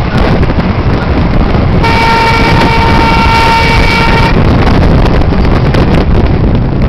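A vehicle horn sounds once, held for about two and a half seconds, over a loud, steady low rumble.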